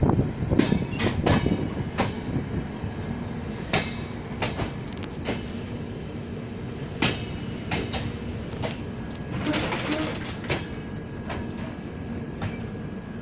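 Train running, heard from on board as it pulls into a station: a low rumble with irregular sharp clacks of the wheels over rail joints. It grows quieter as the train slows, with a brief rush of noise about ten seconds in.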